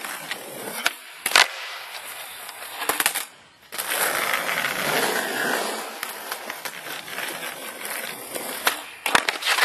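Skateboard rolling on hard pavement, with sharp wooden clacks of the tail popping and the board slapping down during trick attempts: single loud clacks early on, a steady wheel roll in the middle, and a quick cluster of clacks near the end.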